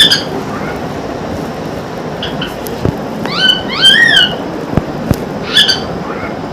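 Pet parrot making short whistled calls that rise and fall in pitch, a cluster of several about three to four seconds in and more near the end, with two sharp clicks between them.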